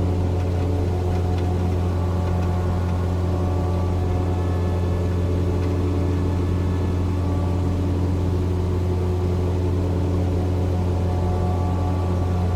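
Cessna 172's piston engine and propeller droning steadily in cruise flight, a loud low hum with even overtones.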